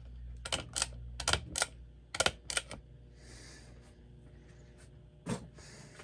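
Ceiling fan's low, steady motor hum with a run of sharp clicks, about eight in the first three seconds, roughly in pairs, and one more near the end; the hum weakens after the clicks.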